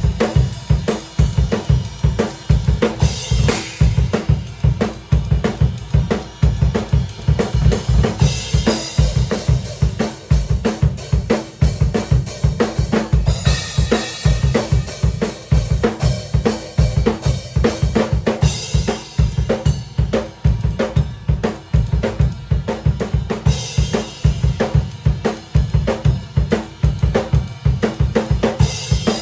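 A drum kit played at full volume: a steady, driving beat of bass drum and snare with hi-hat, and a cymbal crash roughly every five seconds.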